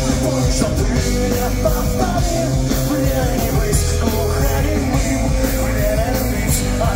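Live pop-punk band playing loudly: distorted electric guitars, bass and drums with cymbals, a steady driving beat.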